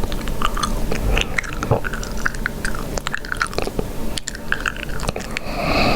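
Chewing gum being chewed, with a quick irregular run of wet smacks and clicks. Near the end comes a brief breathy hiss.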